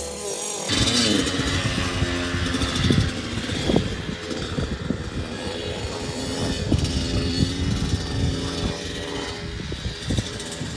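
Dirt bike engine running, its pitch wavering as the throttle changes, with short knocks and rattles over it.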